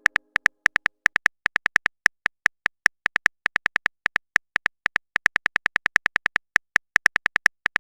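Phone keyboard typing sound effect: a rapid run of short, sharp clicks at an uneven pace, about five a second.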